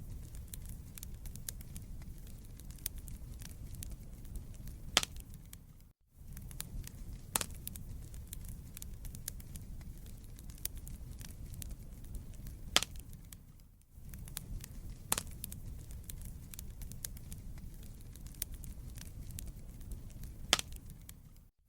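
Wood fire crackling in a fireplace: a steady low rumble of flame under frequent sharp pops and snaps from the burning logs, with three louder pops standing out. The sound drops away briefly about every eight seconds.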